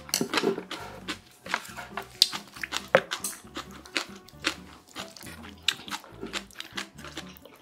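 Background music with a steady bass beat, over a wooden spoon clicking and scraping against a stainless steel bowl as rice is stirred into spicy beef soup. The sharpest knocks come about two and three seconds in.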